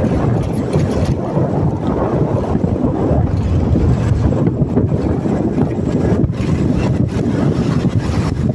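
Wind rushing over the microphone of a moving motorcycle, a steady low rumble with the engine and road noise mixed underneath.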